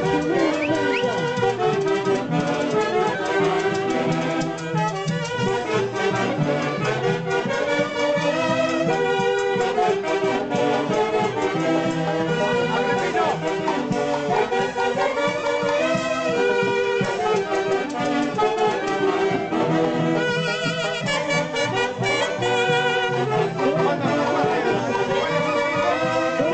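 Live music from an orquesta típica of the central Peruvian Andes, its wind instruments playing the melody together in harmony.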